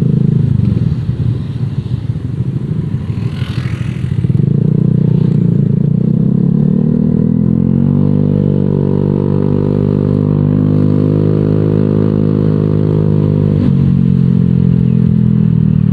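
Honda Vario 125 scooter's single-cylinder engine through an aftermarket Nobi Neo 3 Bold exhaust, with a bassy exhaust note, while riding. About four seconds in the throttle opens and the note climbs, holds steady for several seconds, then drops as the throttle is closed near the end.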